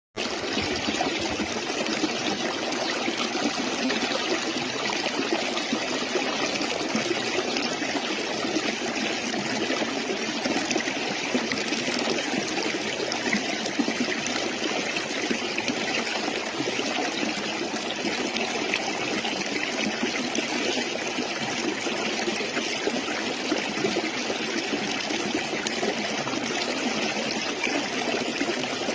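Stream water flowing and trickling steadily, cutting in suddenly at the start.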